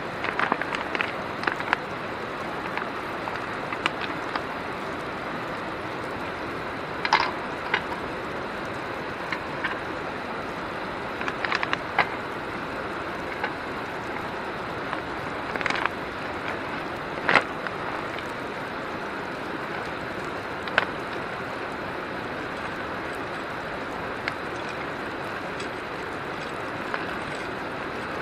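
Steady rush of flowing river water, with a scattering of sharp clicks and knocks every few seconds.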